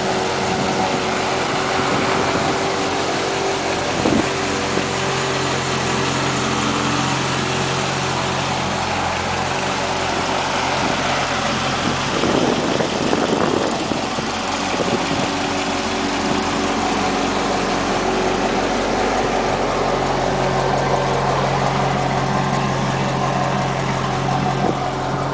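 Chevrolet 396 big-block V8 idling steadily, with a short rougher disturbance about halfway through.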